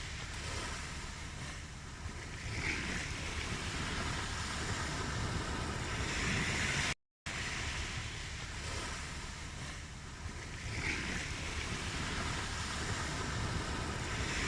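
Recorded ocean surf: a steady wash of waves that swells and eases every few seconds. The track cuts out briefly to silence about seven seconds in.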